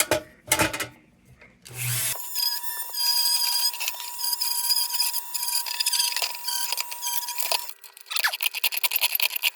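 Small handheld power tool starting about two seconds in and running with a steady whine as it works on the metal lift tracks of a Dietz lantern to clean them. Near the end it gives way to a rougher, rapid scraping.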